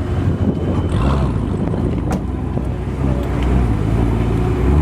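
Ford Mustang V8 exhaust idling loudly, with short blips of the throttle that send the pitch up and back down.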